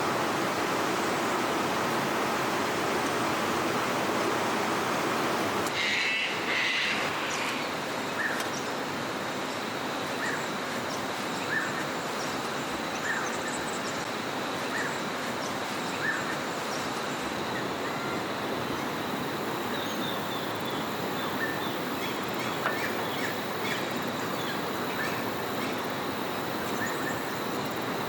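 Bush ambience: a steady rushing background with small birds chirping, short calls repeating every second or two. A brief louder burst comes about six seconds in.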